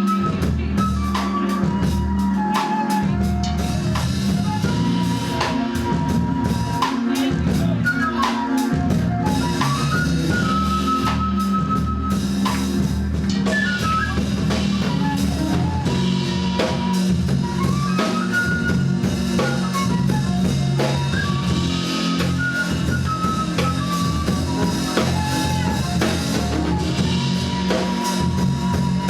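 Live gospel band playing an instrumental passage: a drum kit with bass drum and snare keeping a steady beat under a bass line, with a lead melody of sliding, bending notes on top.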